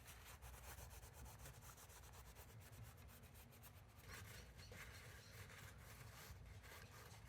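Faint rubbing and scratching of a rag wiping the mating surfaces of a Triumph gearbox outer cover and case clean with brake cleaner.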